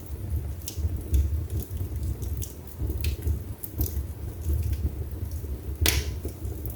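Wood fire burning in a fireplace: a low steady rumble of the flames with scattered sharp pops and crackles from the burning logs, one loud crack about six seconds in.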